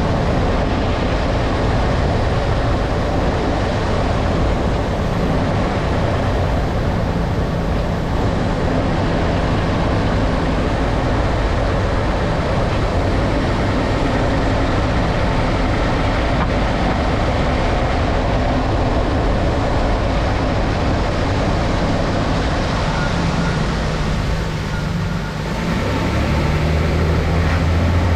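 2012 Nissan Frontier Pro-4X running with a steady rumble of engine and road noise. A brief dip comes about 25 seconds in, then the engine note grows louder near the end.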